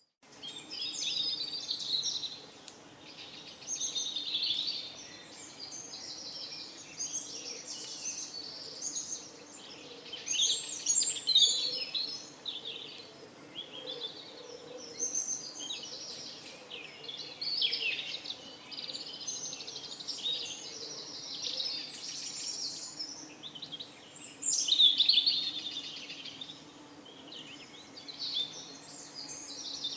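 Many small birds chirping and twittering in a dense, overlapping chorus, with a faint low steady sound underneath.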